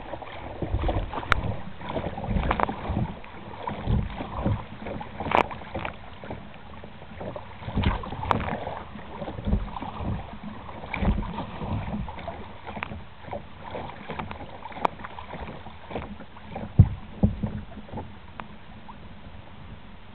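Kayak paddling into the wind: uneven splashes of paddle strokes in the water, with wind buffeting the microphone in low gusty thumps and a few sharp clicks. It settles to a quieter, steadier wash near the end.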